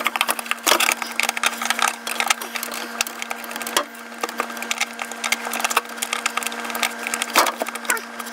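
Rapid, irregular scratchy clicks and scraping of a 40-watt appliance bulb's base grinding against the refrigerator's lamp socket as it is twisted, the threads struggling to catch. A steady hum runs underneath.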